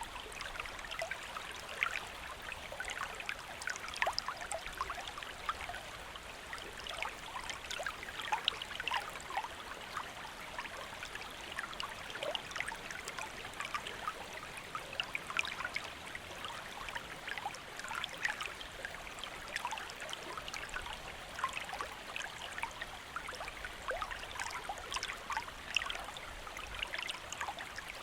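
A shallow stream flowing over rocks: a steady rushing and bubbling with many small splashes and trickles.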